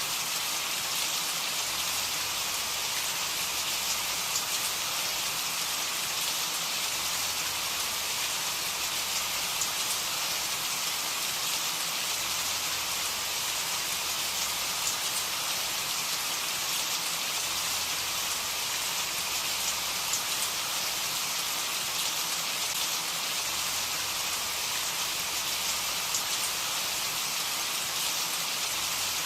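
Steady rain falling, an even hiss dense with fine drop ticks.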